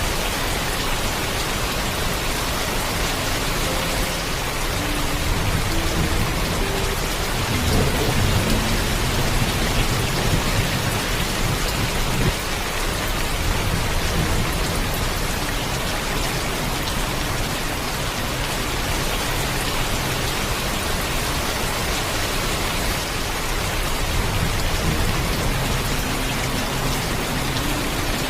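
Heavy rain falling steadily. Thunder rumbles low under it, swelling about a quarter of the way in and fading, then rumbling more softly again near the end.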